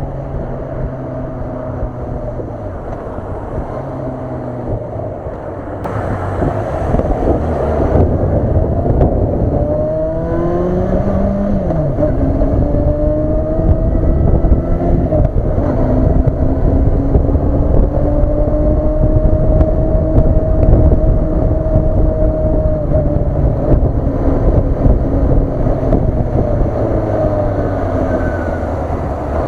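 Honda CB400 Super Bol d'Or's inline-four engine on the move, its pitch rising and falling as it accelerates and shifts gear. Wind rushes over the onboard camera and gets louder about six seconds in.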